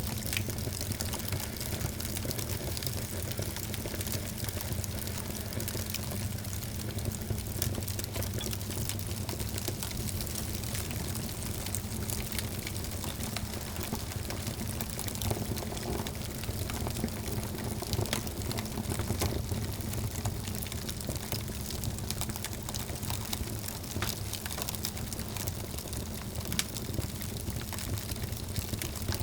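Wood fire crackling in a fireplace: a steady low rumble of burning with frequent small sharp pops and snaps scattered throughout.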